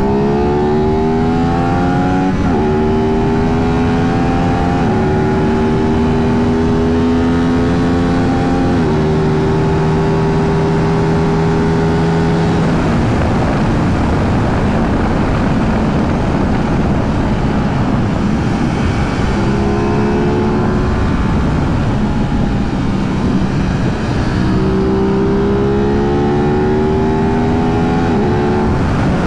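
Aprilia 660 parallel-twin sport motorcycle accelerating hard through the gears. The engine note climbs and drops back at each upshift, every two to three seconds. In the middle it holds a steady pitch, then sinks under a rushing noise off throttle, before it climbs through the gears again near the end.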